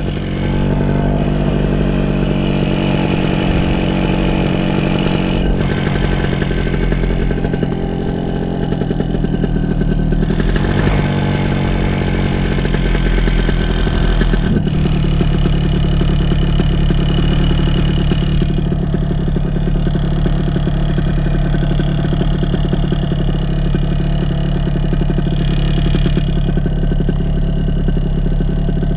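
Paramotor engine running loud and steady, its pitch rising right at the start and swinging once more about ten seconds in.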